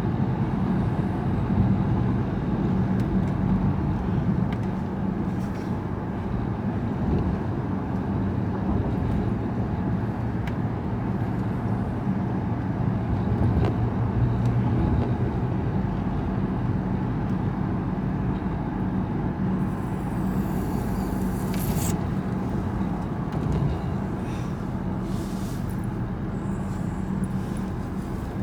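Car engine and road noise heard inside the cabin: a steady low drone, with a brief rushing hiss about two-thirds of the way through.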